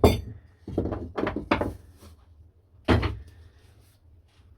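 Knocks and clunks of wood and tools being handled and set down on a workbench: a sharp knock at the start, a quick run of knocks about a second in, and another loud knock about three seconds in.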